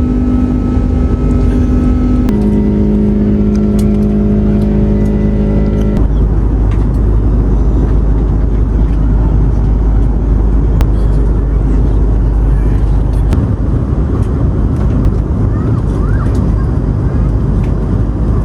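Passenger jet's engines heard from inside the cabin. For the first six seconds there are steady engine tones that step in pitch once, then a loud, even roar with a deep rumble that eases about thirteen seconds in.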